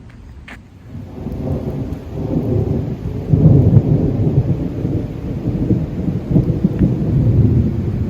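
Thunder rumbling during a rainstorm: a low rumble that swells about a second in and is loudest from about three and a half seconds on.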